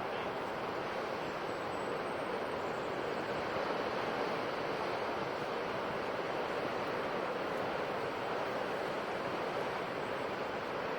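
Ocean surf on a coast: a steady wash of waves with no single break standing out, swelling slightly a few seconds in.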